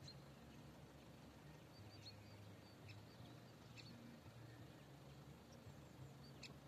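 Near silence: faint outdoor background with a few short high bird chirps and a low hum that comes and goes.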